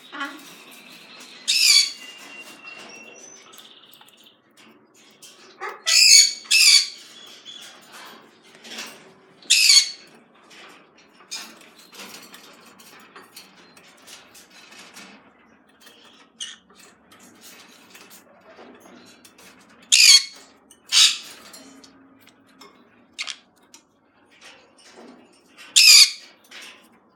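Birds squawking in short, loud, harsh screeches, about seven times, with softer chirps and rustling in between.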